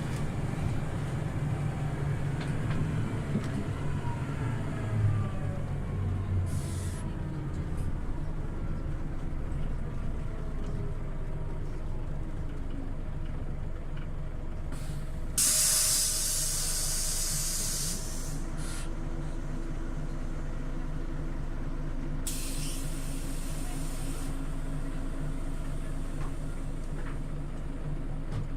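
Scania OmniLink city bus heard from on board: its engine and driveline note falls as the bus slows. Then come loud bursts of compressed-air hiss, a long one about halfway through and a shorter one a few seconds later, over the engine idling steadily.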